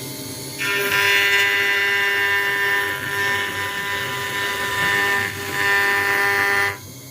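CNC router spindle whining steadily as its bit cuts acrylic sheet. The louder cutting noise starts about half a second in, dips briefly twice, and drops away shortly before the end, leaving the spindle's steady whine.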